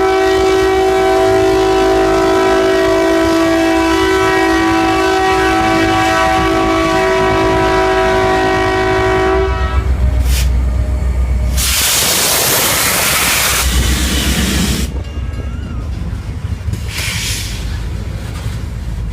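Train horn sounding one long sustained chord for about nine and a half seconds, over the low rumble of a passing train. A couple of seconds after the horn stops comes a loud burst of hissing noise lasting about two seconds, with a fainter one near the end.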